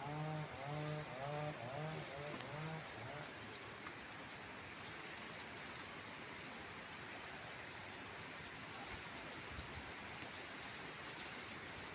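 Steady rushing of strong wind through the garden plants. For the first three seconds a pitched drone pulses over it at about two pulses a second.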